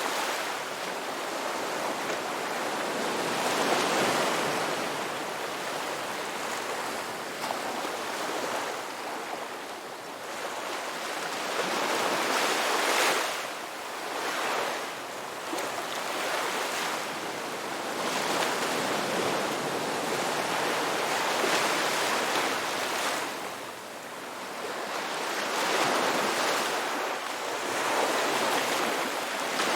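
Ocean waves breaking and washing in, a continuous surf that swells and ebbs every few seconds.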